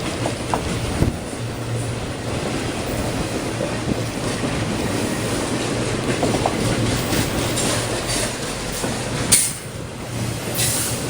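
Norfolk Southern freight train rolling by steadily, steel wheels clacking over the rail joints with faint occasional wheel squeals. A single sharp knock about nine seconds in is followed by a short drop in the noise.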